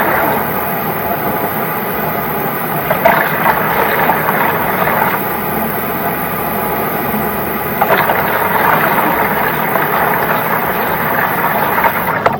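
Kitchen tap running steadily into a container, then shut off suddenly near the end.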